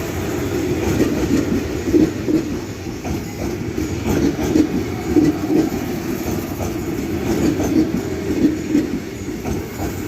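JR 205 series electric commuter train rolling past over the station's points, with a steady rumble and an uneven clatter of wheels over rail joints.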